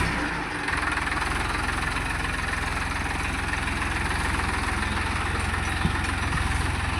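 John Deere tractor's diesel engine running steadily with an even, low chugging beat, briefly dropping back for a moment about half a second in.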